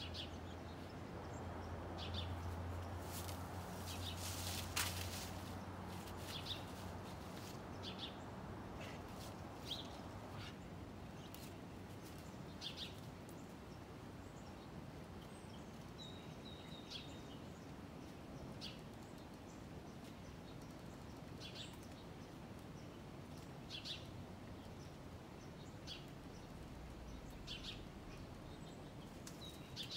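Faint outdoor ambience: small birds chirping briefly, one short call every second or two, over a low steady hum that fades out after about ten seconds. There is one sharp click about five seconds in.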